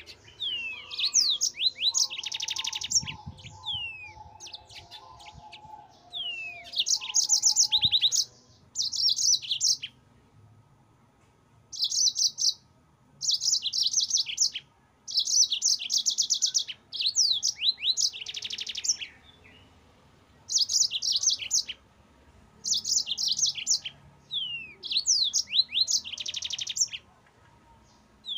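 Yellow-fronted canary singing in repeated phrases of a second or two, each made of high, rapid trills and downward-slurred whistled notes, with short pauses between phrases.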